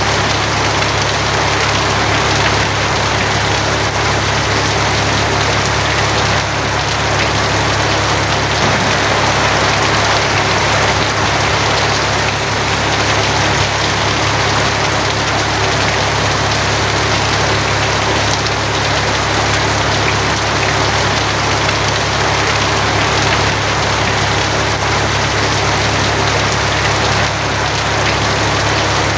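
Steady heavy rain drumming on a tin roof, a dense even patter with no breaks. A steady low drone runs underneath.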